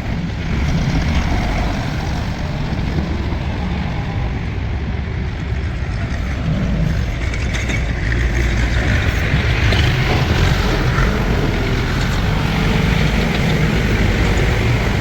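Heavy diesel engine running steadily under load, its sound a little louder in the second half.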